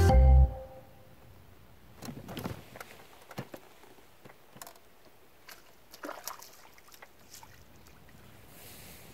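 Background music stops in the first half-second, leaving quiet outdoor ambience broken by scattered faint knocks and rustles.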